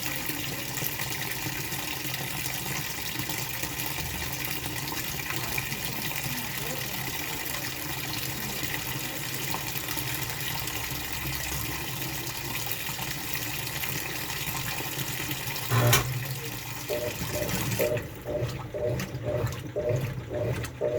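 Washing machine filling: a steady rush of running water. About two-thirds of the way through comes a single thump, and near the end a rhythmic pulsing of about two beats a second begins.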